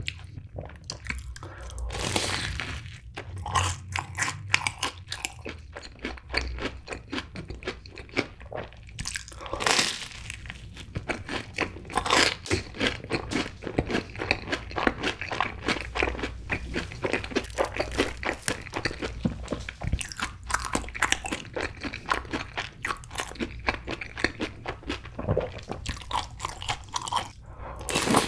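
Chewing of a Cheetos-crusted corn dog dipped in cheddar cheese sauce: continuous crunching of the crumb coating, with a loud fresh bite near the end.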